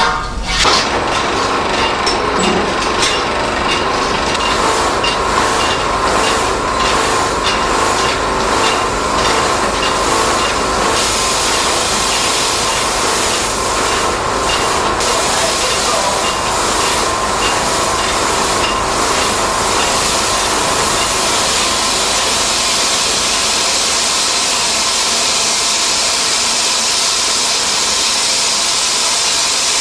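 Steam machinery running: a steady hiss of steam with a regular beat at a little under two strokes a second. The beat fades out about two-thirds of the way through, leaving the hiss.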